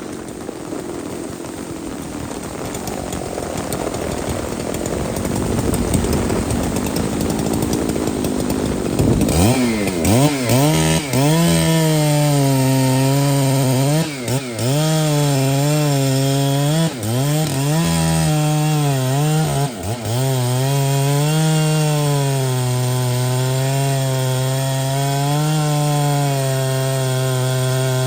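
A large two-stroke felling chainsaw cutting timber, preceded by a rising rush of noise. About nine seconds in, the saw's engine becomes clear and loud. Its pitch sags and recovers repeatedly as the chain bites into the wood under load, then holds steady at high revs.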